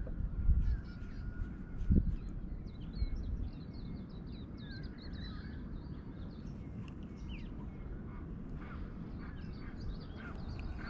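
Birds calling with many quick chirps, busiest through the middle, over a steady low rumble, with a few low thumps in the first few seconds.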